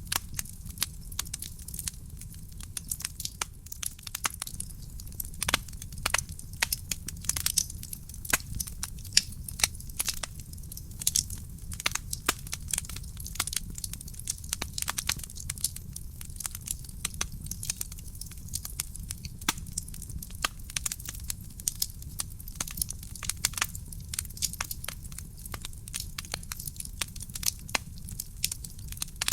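Wood fire burning in a fireplace, crackling and popping at irregular moments over a steady low rumble of the flames.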